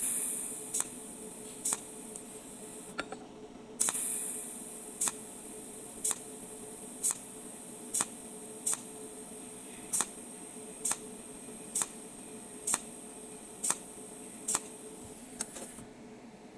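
Cold welding machine firing repeated welding pulses: sharp ticks about once a second over a steady hiss, which breaks off briefly about three seconds in and stops near the end.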